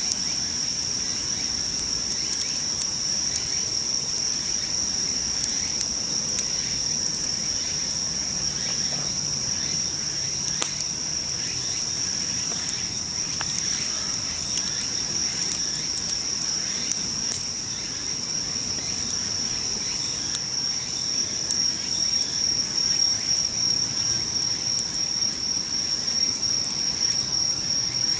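Insects singing: a steady, unbroken high-pitched trill. Scattered sharp crackles from a wood campfire sound over it.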